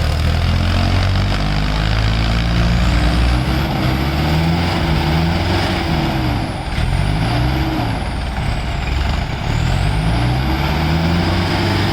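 Diesel tractor engines running loud, their pitch rising and falling several times as they are revved, over a steady low rumble.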